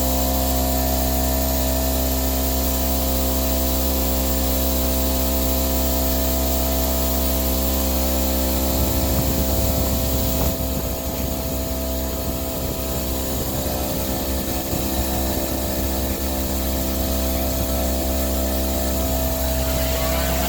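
Electric power tool running steadily with a constant motor hum. From about nine seconds in, its sound turns rougher and more uneven.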